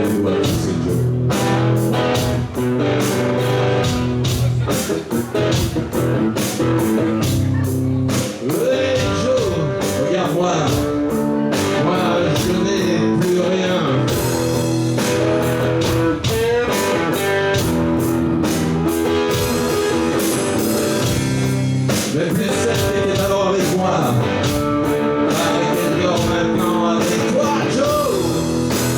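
Live rock band playing a song: electric guitar and drums with a steady beat, and a singer's voice over them.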